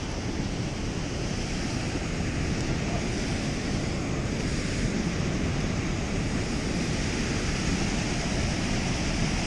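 Steady rushing roar of water pouring through a dam spillway, with wind buffeting the microphone.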